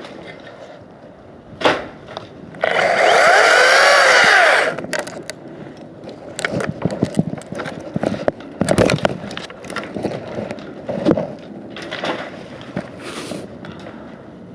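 Makita 18V cordless chainsaw running for about two seconds, its pitch rising and falling as it cuts. This is followed by a scatter of short knocks and clicks.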